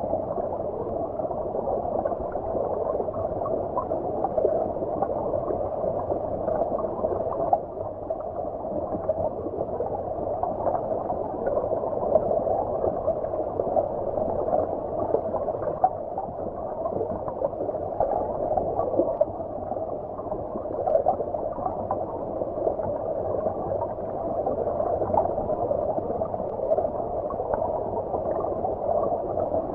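Small stream flowing, heard from underwater: a steady, muffled rush and babble of water with no high tones.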